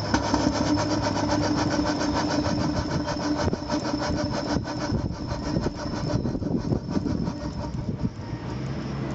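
4-inch scale Foster traction engine model running on compressed air, its exhaust beating quickly and evenly with a steady hiss of escaping air; the beat eases somewhat about six seconds in.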